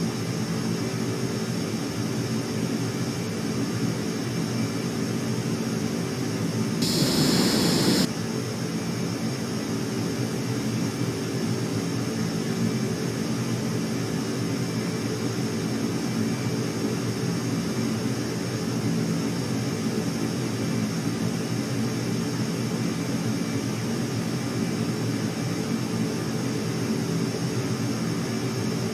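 Aircraft engines running at a steady drone with a constant high whine, not rising or falling as a passing flyby would. About seven seconds in, a louder rush of noise lasts about a second and cuts off suddenly.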